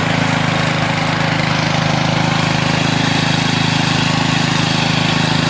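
Orchard weed mower's engine running steadily at constant speed, driving its spinning wire-string cutter.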